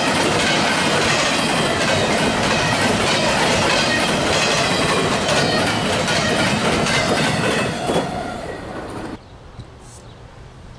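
Freight train of empty intermodal well cars rolling past: steady wheel-on-rail clatter with a high ringing wheel squeal. As the last car goes by about eight seconds in, the noise fades, then cuts off suddenly to a quiet background.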